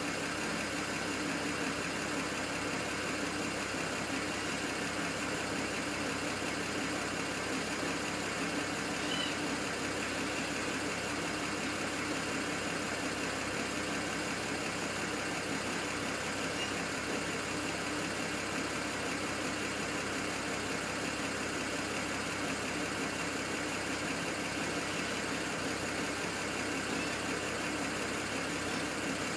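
BMW 135i's N54 twin-turbo straight-six idling steadily, an engine that the owner says misfires at idle.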